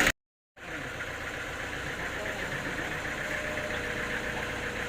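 An engine running steadily at idle, a low steady hum with faint held tones. It starts after about half a second of dead silence that follows a sudden cut in the sound at the very start.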